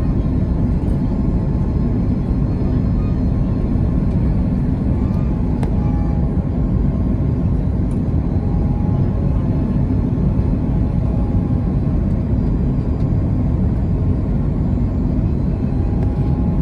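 Steady, unchanging noise of an Airbus A330 airliner's jet engines and airflow heard from inside the cabin, deepest at the low end.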